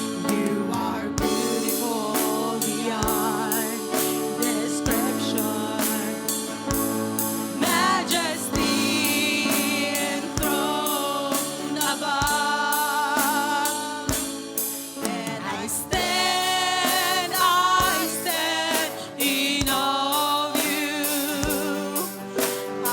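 Gospel worship song: several voices singing with vibrato over a band, with a steady drum beat.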